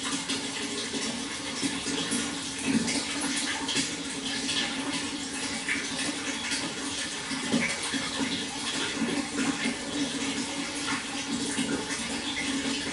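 Water flowing steadily with a busy, bubbling splash.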